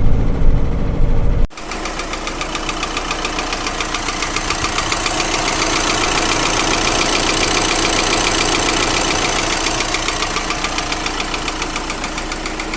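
VW Crafter 2.0 BiTDI twin-turbo diesel running at idle with a rapid, even knock from the engine. The mechanic suspects a collapsed hydraulic lifter that has let its rocker arm come off, so the camshaft hammers on it. A loud low rumble fills the first second and a half and then cuts off.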